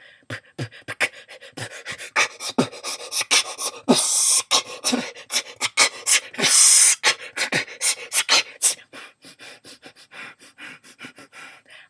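A person beatboxing with the mouth: fast, uneven clicks and puffs of breath, with two longer hissing breaths about four and six and a half seconds in.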